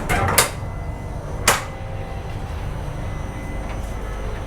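Door knocks and a latch clacking as a train coach washroom door is opened and shut: a few sharp knocks in the first second and a half, over the coach's steady low hum.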